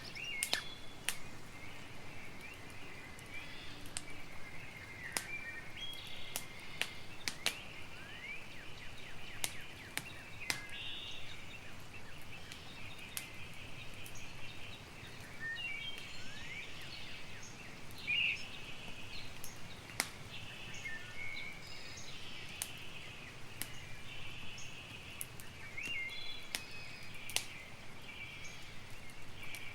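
Campfire crackling, with sharp pops scattered irregularly throughout, over continuous high-pitched chirping calls of wildlife.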